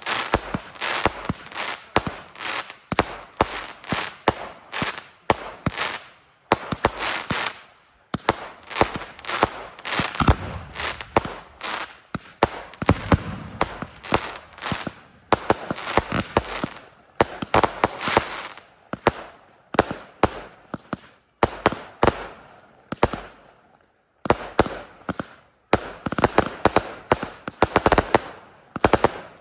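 Fireworks going off in rapid succession: a dense barrage of sharp bangs and crackling, several a second, broken by a few brief pauses.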